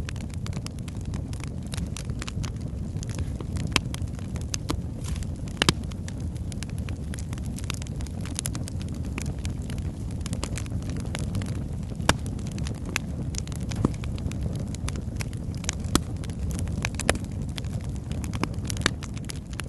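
Wood fire burning in a fireplace: a steady low rumble of flame with irregular sharp crackles and pops from the logs, a few louder snaps among them.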